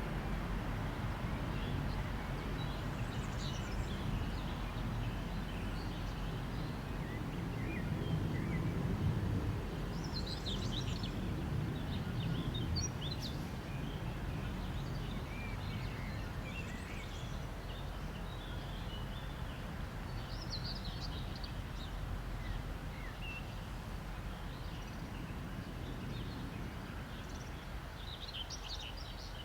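Birds chirping now and then over a low rumble that slowly fades.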